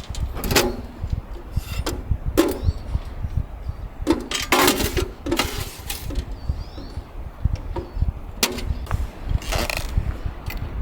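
Strong wind rumbling on the microphone, with a series of short rustling, clattering handling noises, the longest about four to five seconds in.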